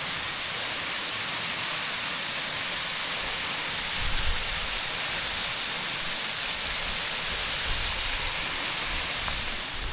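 Steady rushing of a waterfall, an even hiss of falling water that fades away just before the end.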